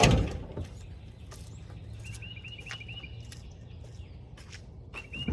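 A heavy thud right at the start, then a songbird singing a quick run of repeated chirps about two seconds in and again near the end.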